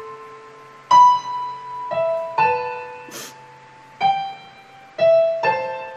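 Slow piano melody: single notes and two-note chords struck about once a second, each ringing on and fading away.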